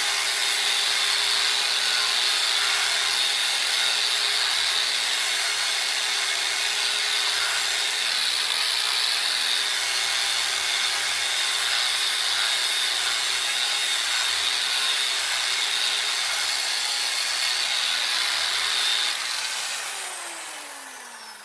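Electric grinder fitted with a 120-grit wheel grinding paint off a bicycle frame, a steady high-pitched grinding rasp. About 19 seconds in the grinder is switched off and winds down, its pitch falling.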